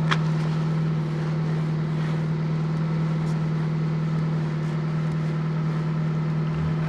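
Fiat Panda 4x4 Sisley's fuel-injected four-cylinder petrol engine idling steadily, still cold a few minutes after a below-freezing start.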